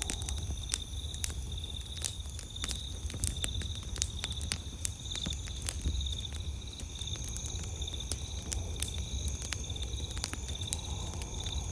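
Wood campfire crackling, with frequent sharp irregular pops, over night insects chirping in a steady, rapidly pulsing high trill. A low steady rumble lies underneath.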